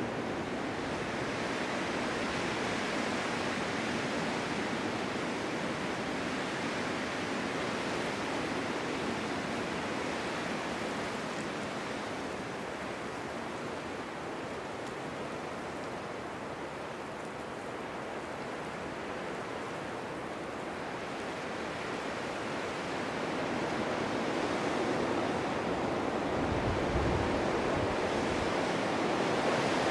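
Winter wind blowing through a snowstorm as a steady rushing noise, easing off somewhat in the middle and building again near the end, with a brief low rumble of a gust.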